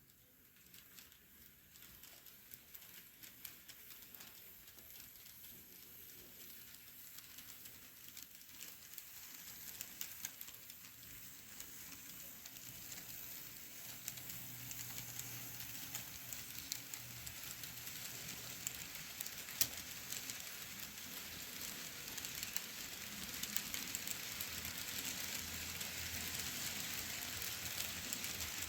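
N scale model train with ConCor passenger cars running on track: a fine rolling crackle of small wheels with many tiny clicks, growing steadily louder as the train comes closer.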